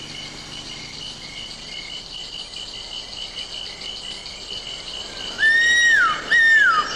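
Night-time chorus of crickets and other insects: a steady, finely pulsing high trill. From about five seconds in, a louder whistled animal call comes three times, each note holding briefly and then sliding down in pitch.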